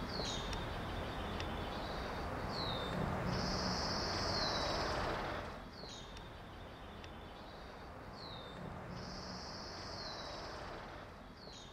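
Small birds chirping: short high falling chirps every second or two, and twice a longer high trill, over a faint outdoor hiss that drops away about halfway through.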